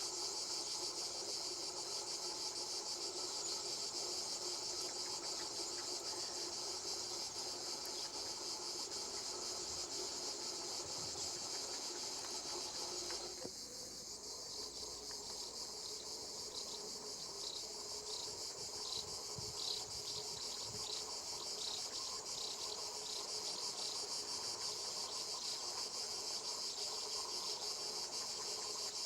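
Summer cicadas buzzing in a steady, high-pitched chorus, with a fainter lower hum underneath that stops about halfway through.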